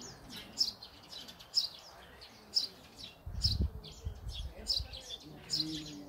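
A songbird repeating a short, high chirping phrase about once a second, over faint background chatter of people talking. A low rumble rises briefly about halfway through.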